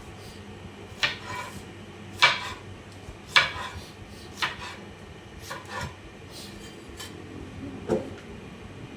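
Kitchen knife slicing okra, striking the cutting board in separate cuts about once a second, with a light scrape of the blade between cuts.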